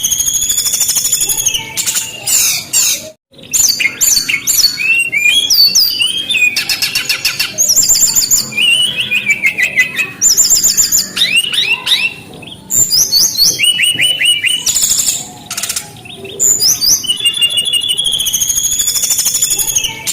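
Brown-chested jungle flycatcher singing loudly: a rapid, varied song of high whistles, stuttering trills and buzzy notes, with a brief cut-out about three seconds in.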